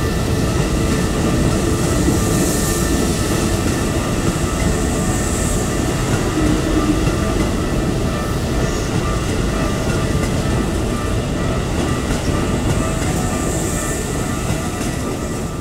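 Keikyu electric train passing over a level crossing, a loud, even rumble of wheels on rails with steady tones held over it, easing off slightly near the end.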